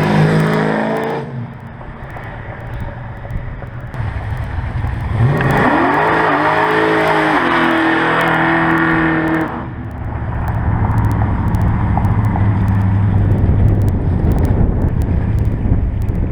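Car engine revving: the pitch swings up and down at the start, rises again about five seconds in and holds high for a few seconds, then falls back to a low steady running note.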